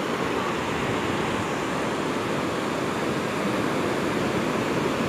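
Steady rushing surf of sea waves at the shore, an even noise with no rise and fall.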